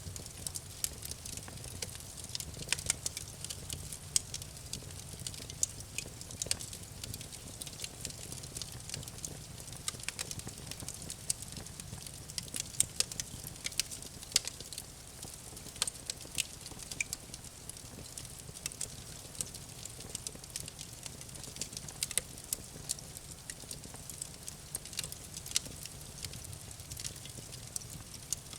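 Campfire crackling: wood burning with a steady stream of irregular sharp pops and snaps over a low rumble of the flames.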